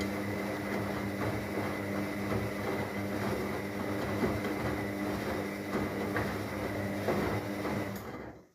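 Myria MY1506 washing machine on its rinse cycle: a steady motor hum under a rough churning noise from the drum, stopping abruptly near the end.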